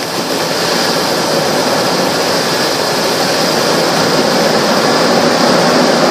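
A 2002 Ford F-150 running in drive: a steady engine and running noise, rising slightly in level. The seller puts the noise down to broken front suspension.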